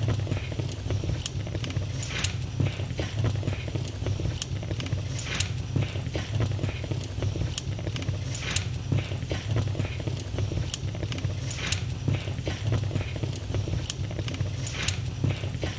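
Wood fire in a fireplace crackling: sharp pops and snaps over a steady low rumble, the loudest pops recurring about every three seconds.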